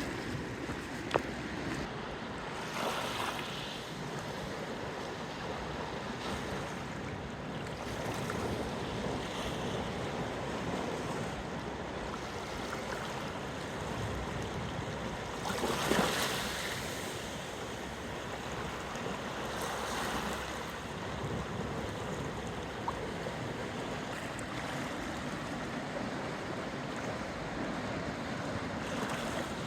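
Steady wind and water at a bay shore, with waves washing in and gusts swelling a few times, the loudest about halfway through. A single sharp click about a second in.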